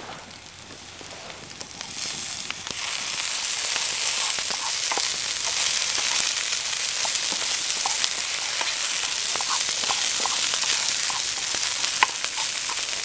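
Potatoes, onions and sausage slices frying in a pan over a wood fire. It is quieter for the first few seconds, then a loud, steady sizzle sets in about three seconds in, with short clicks and pops as the food is stirred with a wooden spatula.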